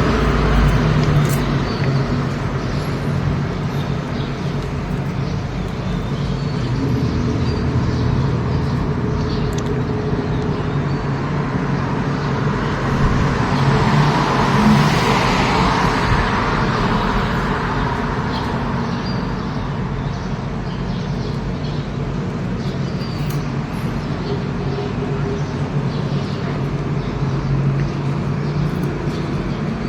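Steady vehicle and road traffic noise with a low engine hum, swelling for a few seconds about halfway through as something passes close.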